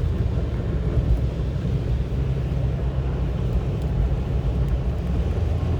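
Car driving along a winter road, a steady low rumble of engine and tyre noise heard from inside the cabin.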